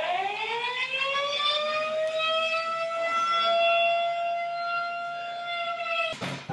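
Civil-defence warning siren winding up, its pitch rising over the first two seconds, then holding one steady tone and cutting off abruptly just before the end.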